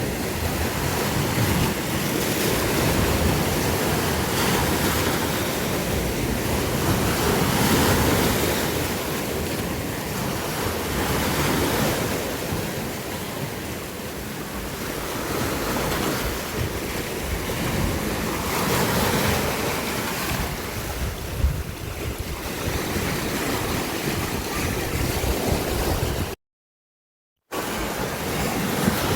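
Sea waves surging and washing back in slow swells every few seconds, with wind noise on the microphone. The sound cuts out completely for about a second near the end.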